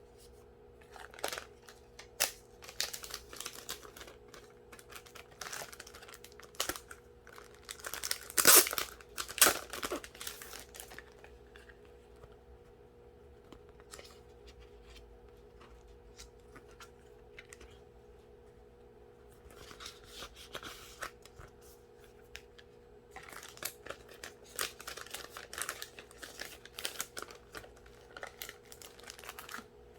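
Packaging being opened by hand: wrapping torn and crinkled in bursts, loudest about eight seconds in, with a quiet pause in the middle before the handling starts again. A faint steady hum runs underneath.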